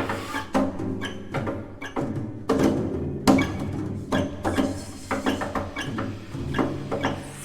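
Contemporary chamber music from a mixed sextet of flute, clarinet, violin, cello, percussion and piano: irregular sharp percussive strikes over held low notes.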